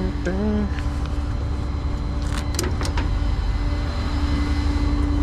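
Tow truck running with a steady low rumble and a constant hum, a few sharp clicks about two to three seconds in.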